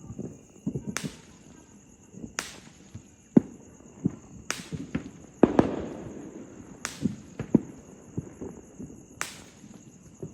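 Fireworks going off: sharp bangs at irregular intervals, about one every second, the loudest a little past midway followed by a lingering rumble.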